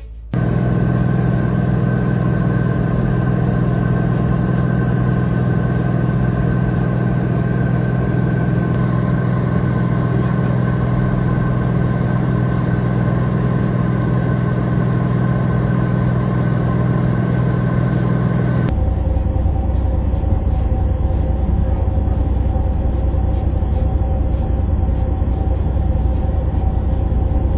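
Steady vehicle engine and road rumble, even throughout, switching abruptly about two-thirds of the way through to a deeper steady rumble.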